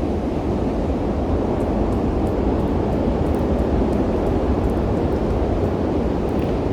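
Strong storm wind blowing steadily: a constant rushing noise with a heavy low rumble, the wind also hitting the microphone.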